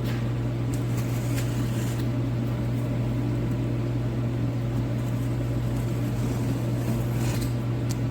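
Overhead heater running: a steady low hum with fan noise over it. A few faint soft clicks sound about a second in and again near the end.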